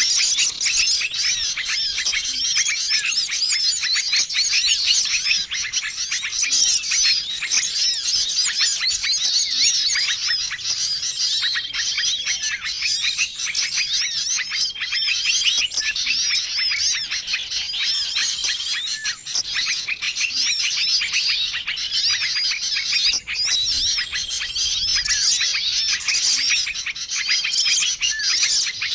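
A dense, unbroken chorus of many small songbirds chirping and twittering from a mixed bird-lure recording, the kind used to call in wild small birds. A short level whistle recurs every few seconds over the twittering.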